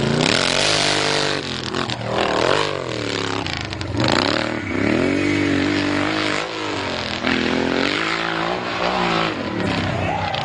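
Hill-climb motorcycle engine under hard throttle, its revs rising and falling again and again as the rider works the throttle up the hill.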